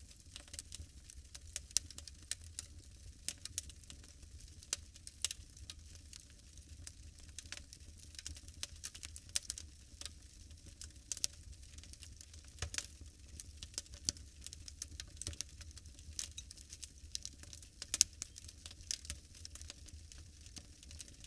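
Wood fire crackling in a fireplace: irregular sharp crackles and pops over a soft hiss, with a few louder pops.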